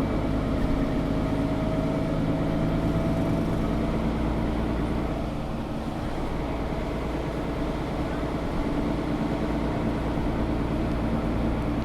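Mercedes-Benz O530 Citaro G articulated diesel bus driving, its engine and drivetrain running steadily, heard from inside the passenger cabin. A faint whine rises in pitch over the first four seconds.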